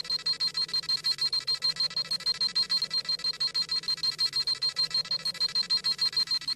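Dragon Ball Z scouter sound effect: rapid, high electronic beeping, about eight beeps a second, steady throughout, the scouter scanning a power level.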